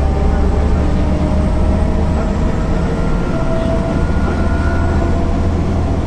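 MAN NL 262 low-floor city bus with a ZF 5 HP 600 automatic gearbox under way, its diesel engine running with a steady low drone and faint higher whines that shift slightly in pitch.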